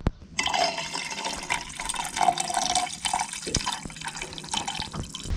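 Water running and gurgling, starting abruptly about half a second in and cutting off just before the end.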